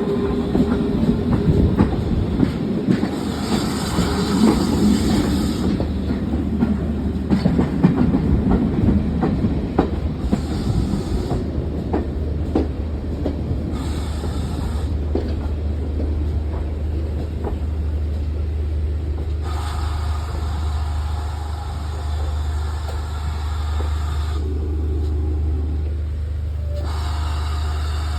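A GWR Prairie steam tank locomotive and its train passing on an uphill climb, wheels clicking over the rail joints in quick irregular strokes. After about ten seconds the clicking dies away, leaving a steady low rumble.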